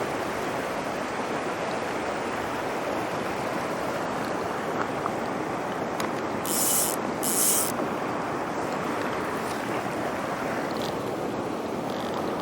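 Steady rush of a cascading mountain stream, with two short high hisses about six and a half and seven and a half seconds in.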